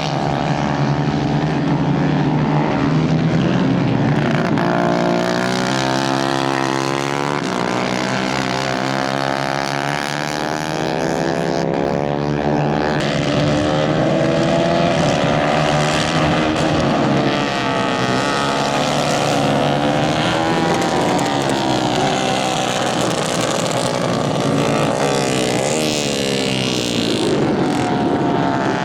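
Several small 150 cc kart engines racing together. Their pitches overlap and keep rising and falling as the engines rev through the laps.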